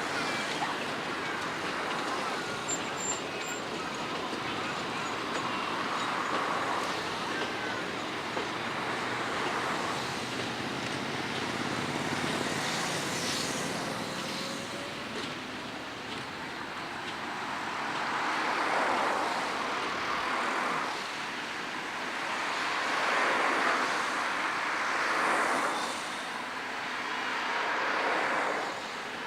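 Narrow-gauge train running past: a steady rumble that swells louder several times in the second half.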